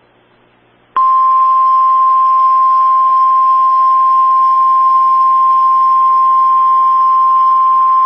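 NOAA Weather Radio 1050 Hz warning alarm tone: after about a second of faint hiss, a single steady high-pitched tone starts abruptly and holds unchanged. It is the alert signal that precedes a broadcast watch or warning message.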